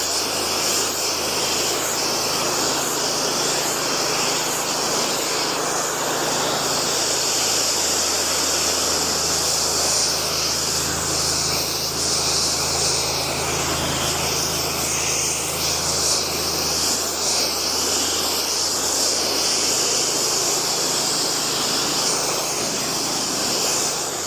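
Pressure washer spraying steadily against the lower part of a house above a mulch bed, a loud continuous hiss that cuts off at the end, with the pressure washer's engine running steadily underneath.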